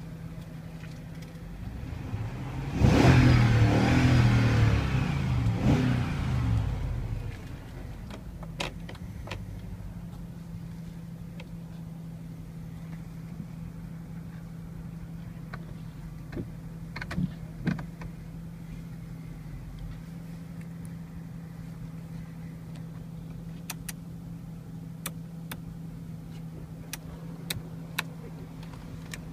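BMW X5 E53 4.4-litre petrol V8 engine, flaring high in revs about three seconds in and falling back over a few seconds to a steady idle, with a few light clicks later on.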